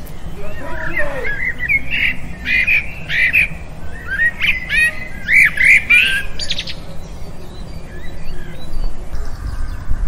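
Bird chirping and calling in a quick run of short, sharp notes, which thin out after about seven seconds, over a steady low rumble.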